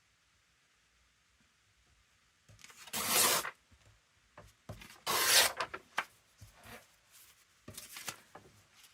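Paper and card being rubbed and handled: quiet at first, then two loud scraping rubs about three and five seconds in, followed by lighter rustles.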